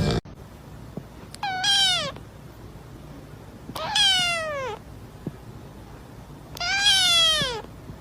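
A cat meowing three times, each meow long and falling in pitch, a few seconds apart.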